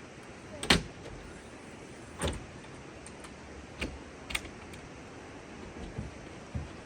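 A string of sharp knocks and clunks over a steady low hiss: a loud one just under a second in, another about two seconds in, then four softer ones.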